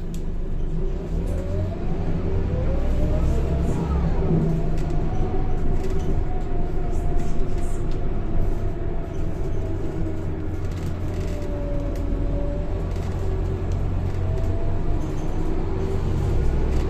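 Onboard a Scania K230 bus under way: a low engine rumble with a ZF automatic gearbox whine. The whine rises in pitch over the first few seconds, then holds and slowly falls, and rises again a few more times as the bus pulls through the gears.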